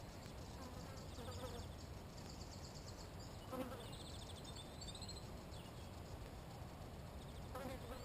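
Small songbirds singing short, fast, high trills of rapidly repeated notes, several phrases in the first half. Three brief louder sounds come about a second and a half in, halfway through and near the end, over a steady low background rumble.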